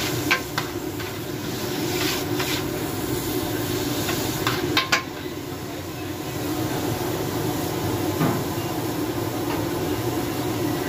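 Chopped chicken and green chillies sizzling in ghee on a flat metal tawa griddle, with a steady hiss throughout. A metal spatula clinks and scrapes against the griddle several times in the first five seconds and once more later, over a steady low hum.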